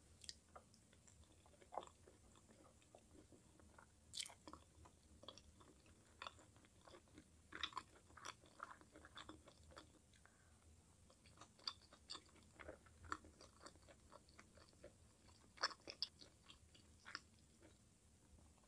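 Close-miked chewing of sauced chicken pieces: soft, irregular mouth clicks and smacks, with a few louder ones about four, seven and fifteen seconds in.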